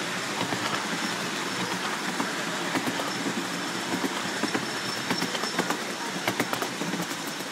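Miniature-railway steam train running along the track, its wheels clicking irregularly over the rails.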